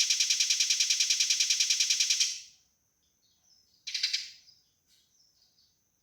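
Eurasian tree sparrow fighting calls: a fast, dense chatter of about ten sharp notes a second that stops about two seconds in, followed by a single short harsh call near four seconds and a few faint chirps.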